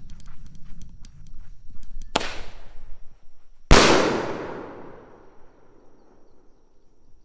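Two firework bangs about a second and a half apart. The second is much louder, with a long fading echo, fitting a tube-launched salute's lift charge followed by its report.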